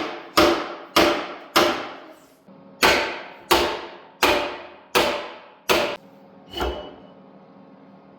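Hammer blows on the stuck rear axle of a 1973 Honda ATC70, knocking it through the housing: about nine ringing metal strikes roughly half a second apart, with a short pause after the third and a weaker final blow.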